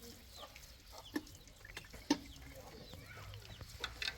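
Birds chirping over and over in short, high, downward-sliding peeps, with two sharp knocks about one and two seconds in.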